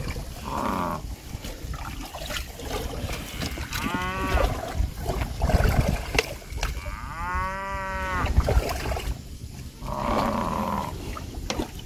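Water buffalo lowing: a short call about four seconds in, then a longer drawn-out call from about seven to eight and a half seconds, its pitch rising and then falling.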